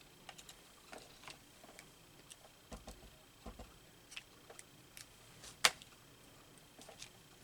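Scattered light clicks and taps of small craft pieces and tools being picked up and set down on a tabletop, irregular, with one louder knock a little before six seconds in.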